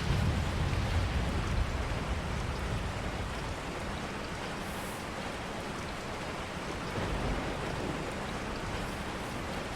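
Steady rain falling. A low rumble swells in the first couple of seconds and returns briefly around seven seconds in.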